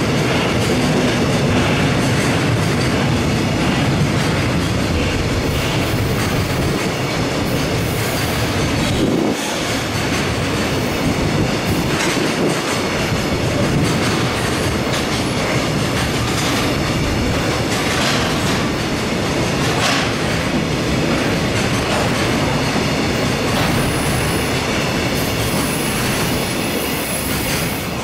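Freight train of container flat wagons rolling past close by: a steady rumble of steel wheels on rail, with clicks over the rail joints and a thin high wheel squeal near the end. It eases off slightly as the last wagon goes by.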